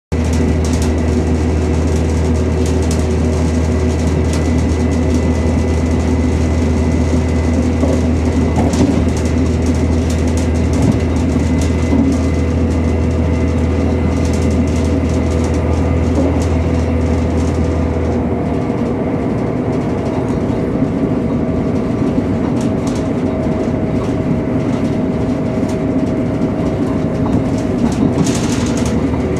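Running noise inside a Chiltern Railways Class 168 diesel multiple unit travelling at speed: a steady drone of the diesel engine and wheels on rail, with a few held tones and occasional short clicks. The deepest part of the drone drops away about two-thirds of the way through.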